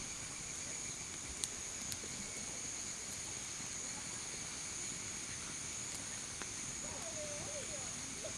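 Night insects trilling steadily at a high pitch, with two sharp clicks about a second and a half and two seconds in.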